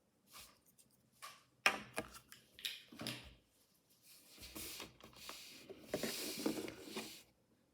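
Toy packaging being handled during an unboxing: a series of sharp clicks and taps, then about three seconds of crinkly rustling, loudest just before it stops.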